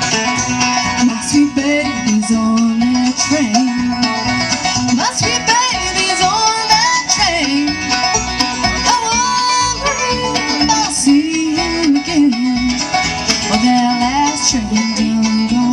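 Bluegrass band playing an instrumental break, with banjo and guitar picking under a sliding melody line, likely fiddle.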